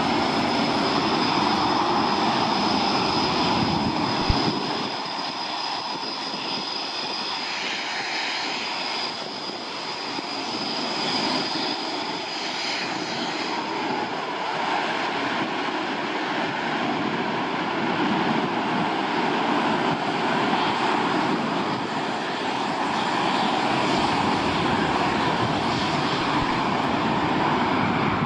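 Military jet aircraft engines running loud and steady during a mass take-off, with a high whine that fades about halfway through. The deep rumble drops away about four seconds in.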